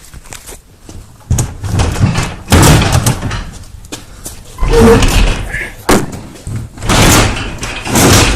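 Damaged garage door being heaved open by hand, rattling and banging in several loud bursts; it is bent and will only open part way.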